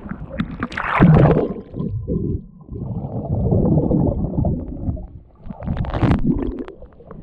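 Seawater sloshing and gurgling over a GoPro's microphone as the swimmer moves in the water, in uneven muffled surges with louder splashes about a second in and near six seconds.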